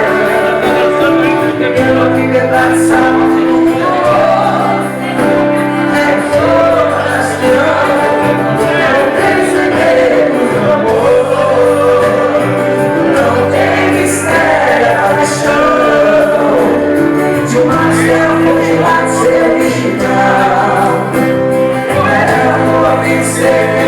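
Live band playing a song with singing voices over sustained held chords and bass notes.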